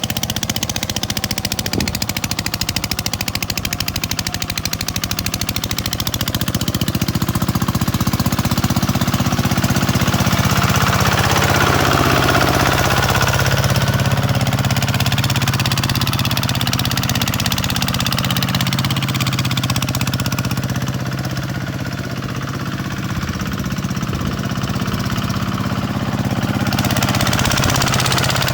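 Farm tractor's diesel engine running steadily with a rapid clatter, growing somewhat louder about a third of the way in and easing a little later on.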